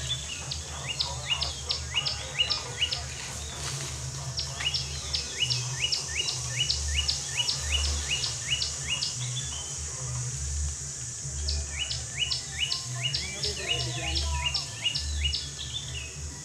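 A songbird calling in quick runs of short, high two-note chirps, about three a second, in three bouts separated by short pauses, over a steady high hiss.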